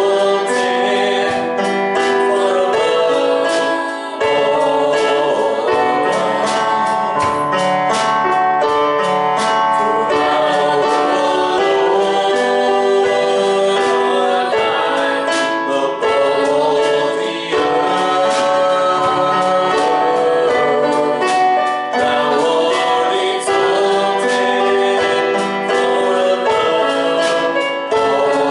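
Congregational gospel worship music: singing with instrumental accompaniment and a steady beat of percussive strikes.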